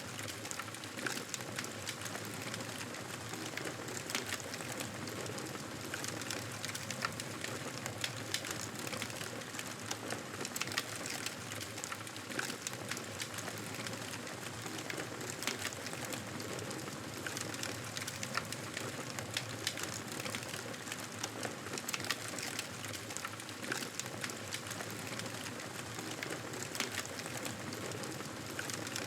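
Campfire crackling: a steady hiss of burning wood with frequent irregular sharp pops and snaps.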